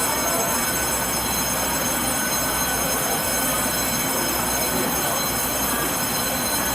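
Train running on the rails: a steady, even rush of noise.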